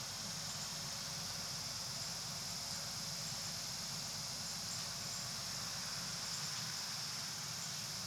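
Interior running noise of a diesel city route bus under way: a steady low rumble with a constant high-pitched hiss over it. The deepest part of the rumble thins out about six seconds in.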